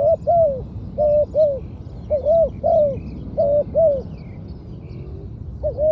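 Spotted dove cooing: short two-note coos repeated in phrases about once a second, each note bending down at the end. Faint chirps from small birds sound higher up.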